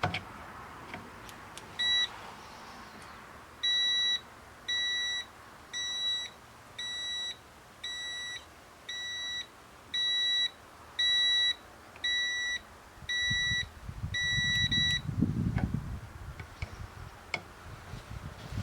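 Electronic brake fluid moisture tester beeping: one short beep, then a run of about eleven steady beeps, roughly one a second, all at one high pitch. Low handling noise comes in over the last few seconds.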